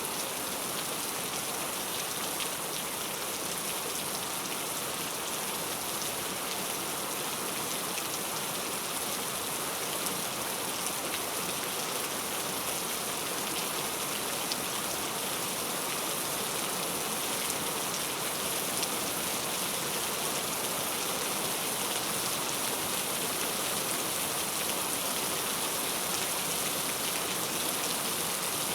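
Heavy rain falling steadily: an even, dense hiss with scattered drop ticks.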